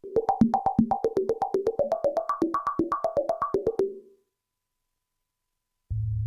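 Waldorf Quantum synthesizer playing a fast sequenced run of short, plucky notes, about seven a second, that stops abruptly about four seconds in. After a brief silence, a low sustained bass note starts near the end.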